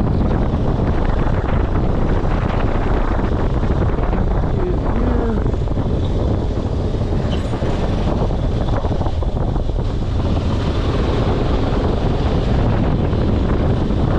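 Wind buffeting the microphone: a loud, steady rumbling noise that runs on with no speech.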